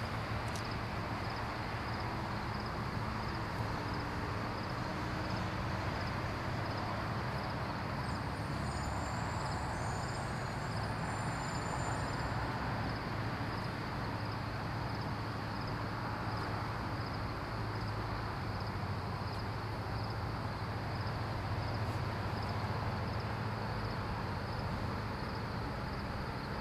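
Steady low rumble of distant CN diesel freight locomotives approaching.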